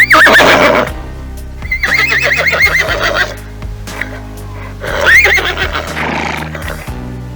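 An animal calling loudly three times, the middle call long and quavering, over steady background music.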